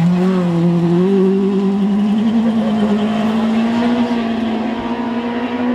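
Rally car engine held at high revs under full throttle, its note climbing slowly and steadily as the car accelerates away along a gravel stage. The sound cuts off suddenly near the end.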